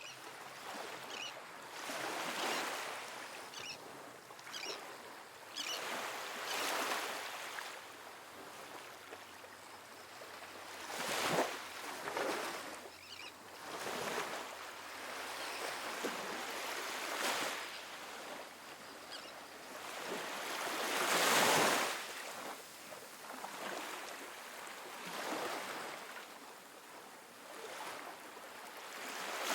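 Small, gentle ocean waves breaking and washing up a sandy beach, one wash every few seconds, each rising and falling away. One louder wave breaks about two-thirds of the way through.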